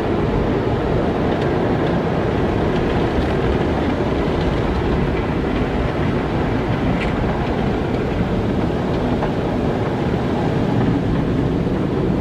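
Car wash running: a steady, low rumbling rush of noise with a few faint ticks.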